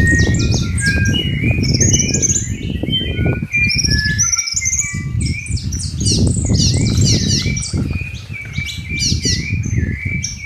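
Dense chorus of many birds chirping and calling at once, a constant overlap of short chirps and quick falling whistles, over a loud low rumble that dips briefly in the middle.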